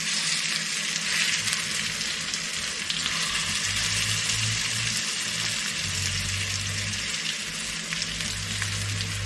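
Beef chuck roast searing in hot oil in a pan: a steady sizzle. A low hum comes and goes underneath from about halfway through.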